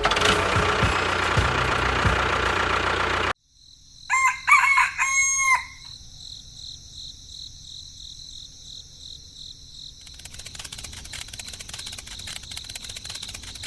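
A loud, dense sound cuts off suddenly about three seconds in. Then a rooster crows once over a steady high-pitched whine, and a faint rapid ticking starts near the end.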